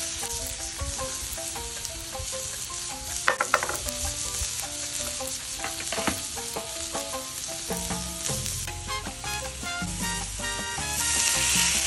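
Bacon and diced onion sizzling on a hot Traeger Flat Rock flat-top griddle, with a metal spatula scraping and clicking on the griddle top a few times. The sizzle gets louder near the end. Background music plays underneath.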